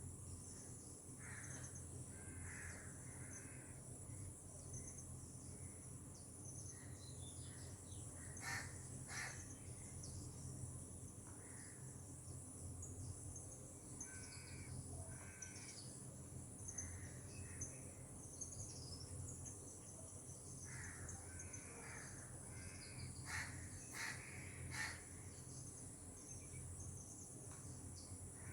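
Faint tropical outdoor ambience: insects shrilling steadily on one high note, with birds calling in short scattered bursts. A few louder, sharper calls stand out about a third of the way in and again toward the end.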